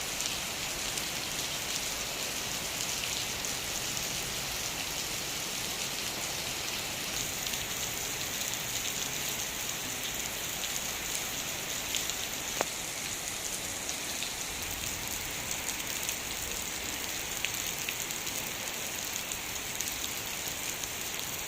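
Heavy rain falling in a steady hiss, with scattered drop ticks and one sharper tick a little past halfway.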